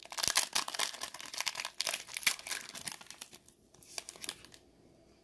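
Plastic foil wrapper of a Mosaic football card pack crinkling and tearing open, busy for about three seconds and then trailing off into a few lighter rustles.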